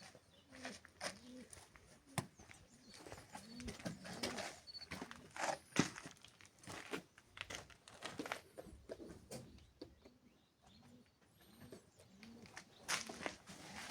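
Dove cooing in a steady string of low, repeated notes, with scattered sharp clicks and knocks.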